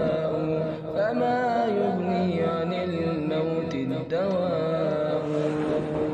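Wordless vocal background music: layered voices holding and sliding between long sustained notes, like a chanted drone.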